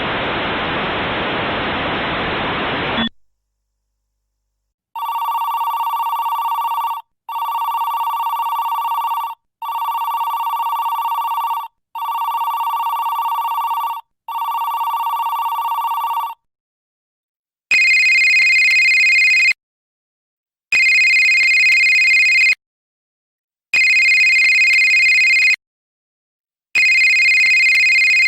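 A burst of steady static hiss that cuts off about three seconds in, then telephone ring tones: five long, evenly spaced steady tones, followed by a different, higher-pitched ring repeating in on-off pulses about every three seconds.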